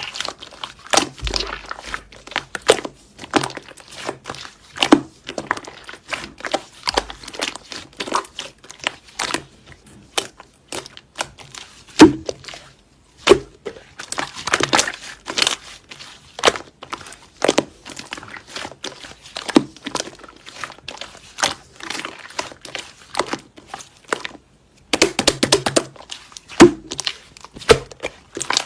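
Slime being squished and stretched by hand: a dense, irregular run of sticky crackles, clicks and pops, with a brief pause about four seconds before the end.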